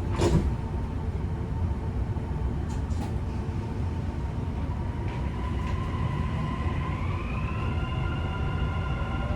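Inside a Dubai Metro train pulling away from a station: a single knock just after the start as the doors shut, over a steady low rumble. About seven seconds in, the electric traction motors' whine rises in pitch as the train speeds up.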